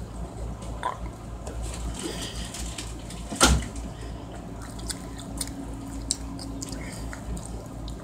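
Close-up chewing and wet mouth sounds from someone eating rotisserie chicken skin, with scattered small clicks over a low hum. A single sharp knock about three and a half seconds in is the loudest sound.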